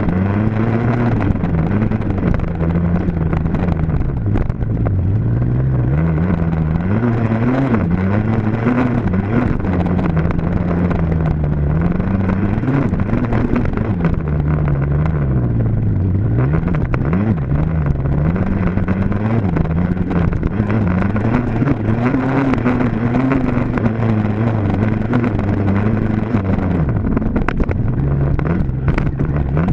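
Dirt bike engine running hard, its pitch climbing and dropping again and again as the throttle is opened and closed.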